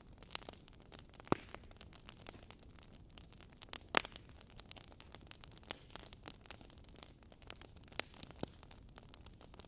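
Wood fire burning in a fireplace: logs crackling with irregular sharp pops over a soft steady hiss, the loudest pops about a second in and near the middle.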